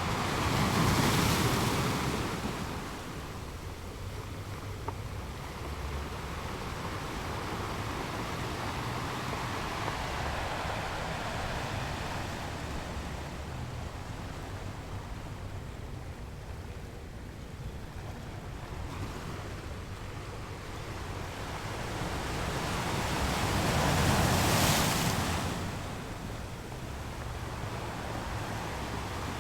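Ocean waves rolling in on a shore: a steady wash of surf with two larger waves breaking, one about a second in and another near the end.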